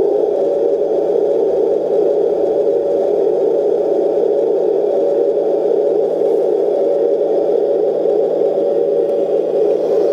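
Radio-controlled Leopard tank running steadily with an even mechanical drone at a constant pitch that does not change throughout.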